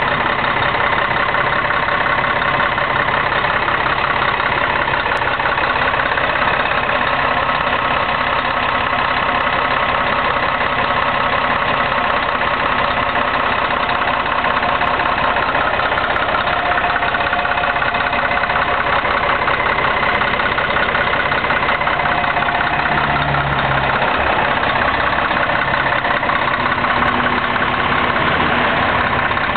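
Scania K113 bus's diesel engine running steadily, an even engine drone with little change in pitch.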